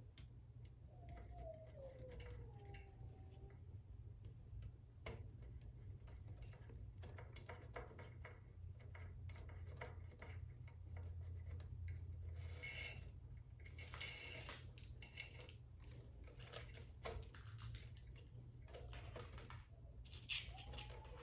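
Faint, scattered clicks and rustles of hands working thin wires through a narrow slot in a scooter's frame, over a low steady hum.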